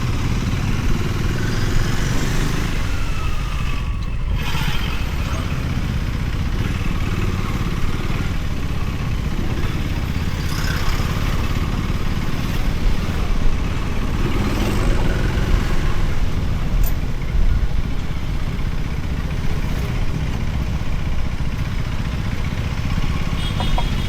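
Motorcycle riding along the road: engine running with steady road and wind rumble.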